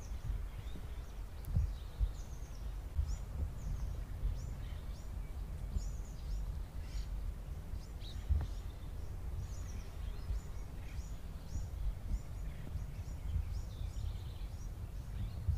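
Small birds chirping repeatedly in short high calls over a steady low rumble, with a few soft low thumps.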